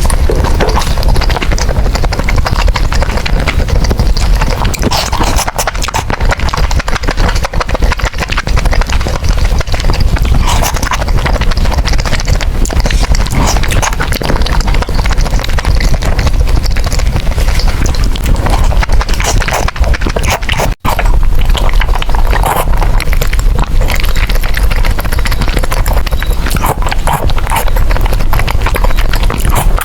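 Close-miked eating of spicy noodles: a dense, loud run of wet chewing clicks, smacks and slurps. It breaks off for an instant about two-thirds of the way through.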